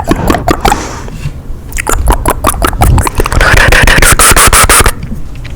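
Rapid sharp clicks and scratchy scraping very close to an ASMR microphone, with a breathy hiss lasting about a second and a half, beginning about three seconds in.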